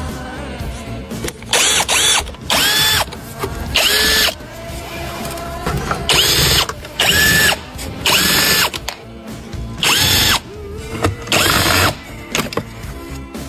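A handheld power drill run in short trigger bursts, about eight times: each burst's whine rises quickly in pitch, holds, then drops off as it stops. A music track plays underneath.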